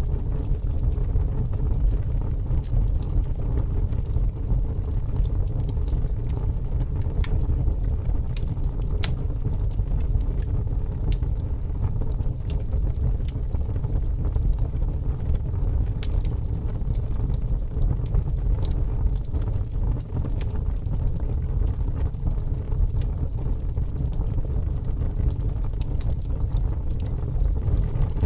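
Fire burning with a steady low rumble and frequent small crackles and pops.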